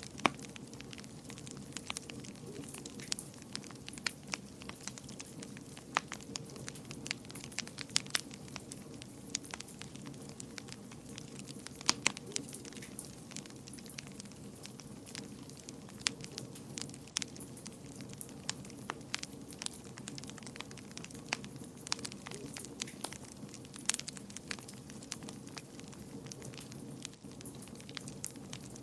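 Wood fire burning in a fireplace, a steady low roar under frequent irregular crackles and pops.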